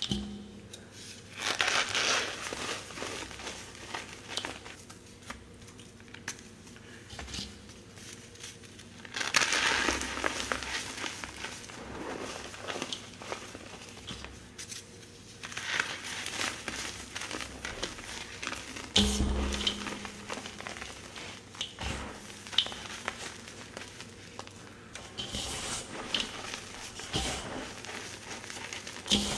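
Slabs of gym chalk being crushed and crumbled by hand, crunching in several long bursts with scattered small crackles and a heavier knock about two-thirds of the way through.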